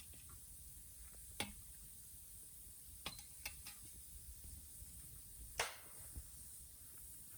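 Bonfire crackling softly, with a few sharp, irregular pops over a faint steady hiss; the loudest pop comes a little past halfway.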